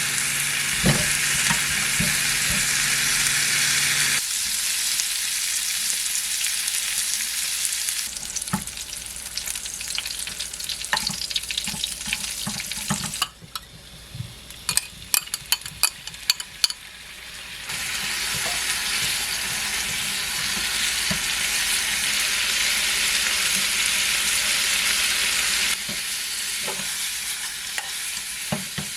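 Pork belly frying and sizzling in a pan. The sizzle drops away for a few seconds midway, where utensils click and tap against the pan, and then comes back loud.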